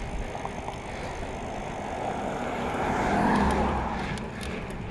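A car passing by, its sound swelling to a peak about three and a half seconds in and then fading, over steady noise from the ride.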